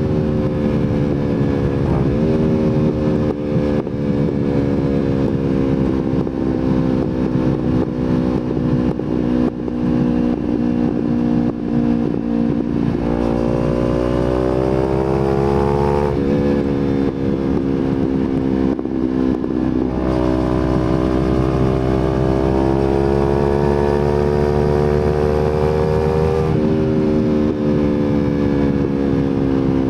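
Kawasaki Z250 motorcycle engine running through an aftermarket slip-on exhaust while riding. The engine note climbs under throttle and drops sharply at upshifts, about three times, with a stretch early on where the revs slowly sag before climbing again.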